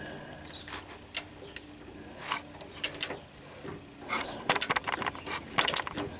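Ratcheting wrench clicking as a bolt is turned. A few single clicks come first, then quick runs of clicks from about two-thirds of the way in.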